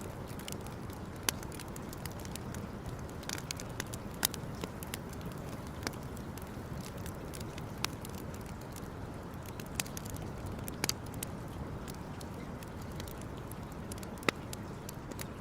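Wood campfire burning steadily, crackling, with sharp pops now and then at irregular intervals.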